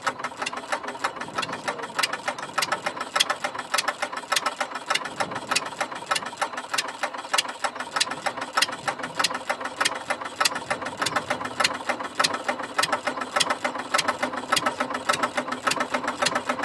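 Replica of Henry Ford's 1893 single-cylinder gasoline engine running steadily with a fast, even clatter of sharp ticks.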